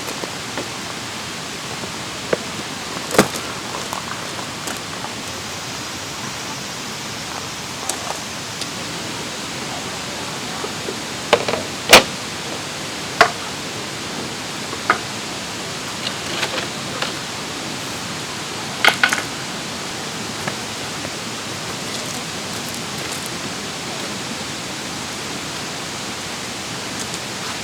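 Mountain stream rushing steadily over rocks, with a few sharp knocks and clicks now and then.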